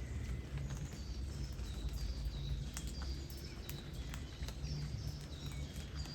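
Light rain falling, with scattered drops ticking sharply, over a steady low rumble of wind and flowing river water. Short high bird chirps come and go.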